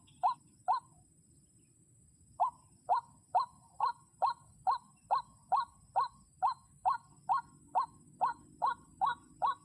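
White-breasted waterhen (ruak-ruak) calling: a run of short, hooked notes repeated about two a second, broken by a pause of about a second and a half after the first two notes, then going on steadily.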